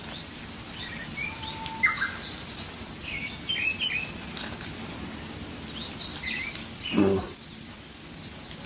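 Small songbirds chirping and calling over quiet outdoor ambience, with one brief low call about seven seconds in.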